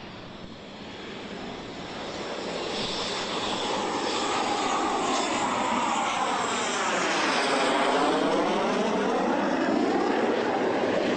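Jet aircraft passing low by, its sound building to a steady loud rush, with a hollow whooshing tone that sweeps down and back up as it goes past.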